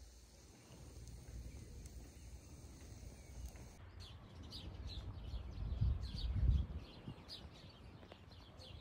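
Small birds chirping in quick, short, high calls, several a second, from about four seconds in. Under them is a low rumbling noise that swells about two-thirds of the way through.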